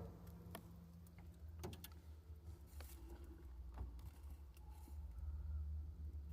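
Faint steady low hum with a few faint clicks and taps scattered through it.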